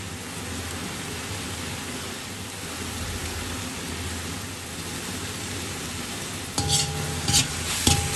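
Onions, tomatoes and chillies frying in a wok with a steady sizzle. About six and a half seconds in, a metal spatula starts stirring, scraping and clanking against the wok with sharp metallic clicks and a brief ring.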